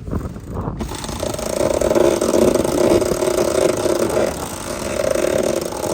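Electric sheet winch running under load as the genoa is rolled out, a steady motor whine with a short pause about four seconds in before it starts again.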